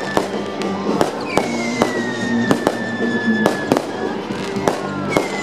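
Fireworks display: aerial shells bursting overhead in a fast, irregular run of sharp bangs and crackles.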